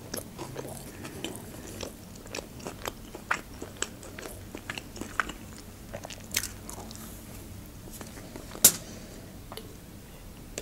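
A person chewing and biting a breaded McDonald's chicken nugget close to the microphone: wet mouth clicks and light crunches scattered throughout, with one sharper, louder click about three-quarters of the way through.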